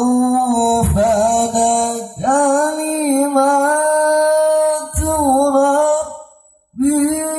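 A man reciting the Qur'an in the melodic tilawah style, holding long ornamented notes that waver and turn in pitch. The phrases break briefly about two and five seconds in, with a short silence near the end before he goes on.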